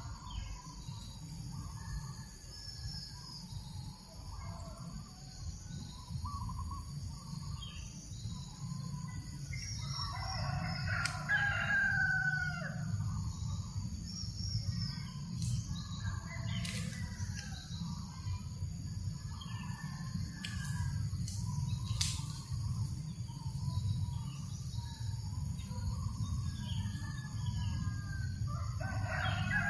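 A rooster crows, once about ten seconds in and again near the end, with smaller bird chirps in between, over a steady low rumble of breeze on the microphone.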